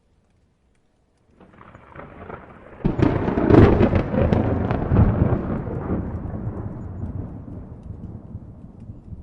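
A thunderclap: near silence at first, then a rumble builds about a second and a half in, breaks into a loud crackling peal just before three seconds, and rolls on, slowly fading away.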